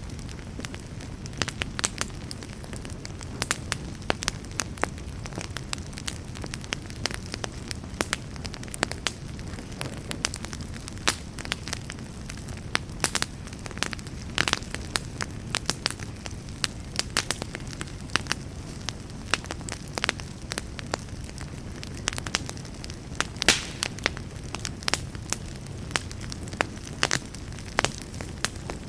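Campfire burning with a steady low rumble and frequent irregular crackles and pops of burning wood.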